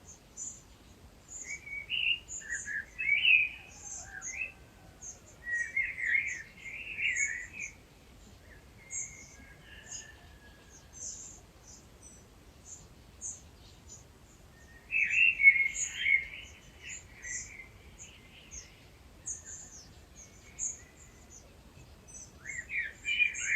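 Dawn chorus of several wild birds. Thin, high chirps repeat all through, and louder warbling song phrases come in four times, spaced several seconds apart.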